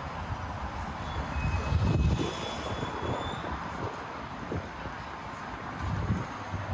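City street ambience: traffic going by, swelling to its loudest about two seconds in, with low rumbling gusts of wind on the microphone.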